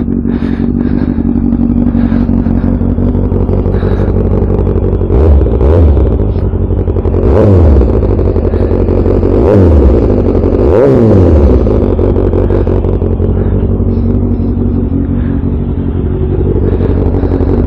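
Yamaha MT-09's 890 cc inline three-cylinder engine running through an Akrapovic full exhaust while riding. The revs climb and drop several times in the middle, then settle to a steadier run.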